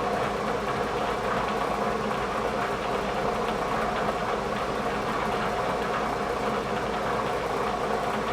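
Bridgeport milling machine running with a steady hum, its spindle turning an edge finder as the edge of the workpiece is located.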